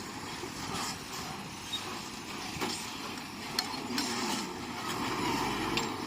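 Bulldozer at work: its diesel engine running steadily, with a handful of sharp metallic clinks and knocks on top.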